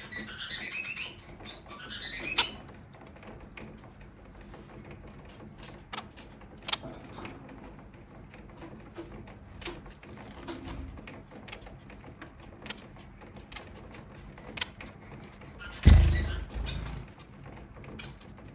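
Bengalese finches chirping in two short quick bursts at the start, then scattered light clicks and taps. A sudden heavy low thump comes near the end and dies away over about a second.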